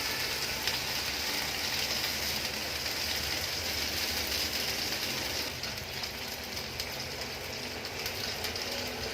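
Onion and ginger-garlic-cumin paste frying in hot oil in a pan, a steady sizzling hiss that eases a little about five and a half seconds in.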